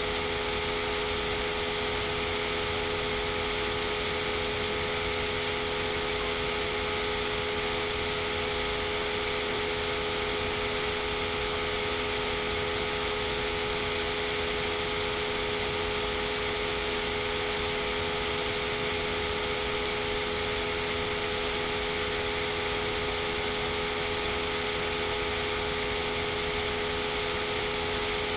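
Steady machine hum with constant hiss and a few unchanging tones, no change in level.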